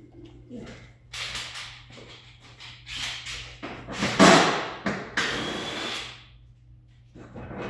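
Car body parts being pried and pulled off by hand during a front-end teardown: a run of scraping, rattling bursts of plastic and metal, the loudest about four seconds in, over a steady low hum.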